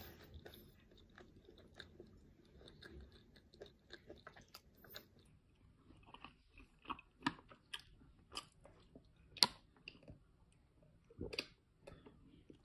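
Close-miked chewing of fresh fruit: soft wet mouth clicks and crunches scattered through, one sharper click about nine seconds in. Near the end, a sip from a mug.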